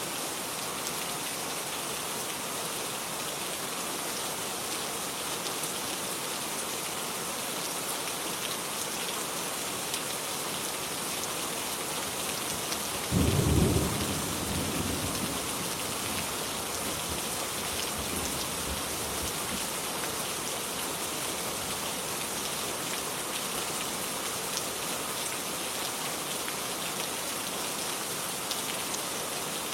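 Steady rain falling, with a single sudden thunderclap a little before halfway through that rumbles away over a few seconds.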